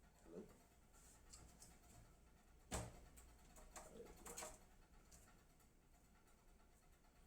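Near silence broken by a few faint clicks and taps from a screwdriver and small screws against a metal PC case, with one sharper click a little under three seconds in.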